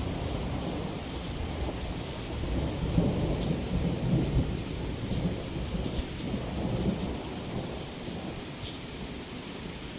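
Heavy rain pouring steadily against a window, with small drop ticks and a low rumble of thunder that swells in the middle and eases toward the end.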